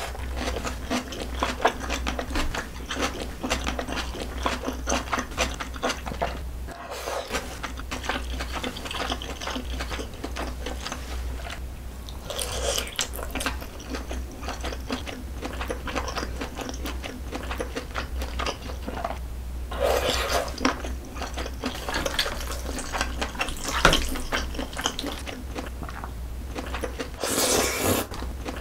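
Close-miked wet chewing of saucy ramen and glass noodles and chicken, with many small sticky clicks of the mouth. There are louder slurps of noodles three times, about twelve, twenty and twenty-seven seconds in, over a steady low hum.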